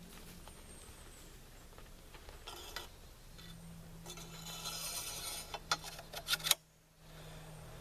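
Metal AR rifle parts being worked by hand during upper assembly: scraping and rubbing that builds through the middle, then a quick run of sharp clicks and clinks about six seconds in.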